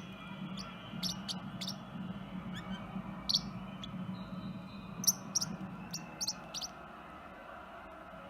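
Forpus parrotlet giving short, sharp high-pitched chirps, a dozen or so at irregular intervals, which stop about a second before the end.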